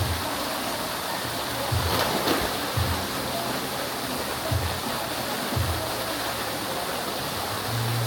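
Steady rushing of a large waterfall pouring into a pool, with low bass notes of background music underneath.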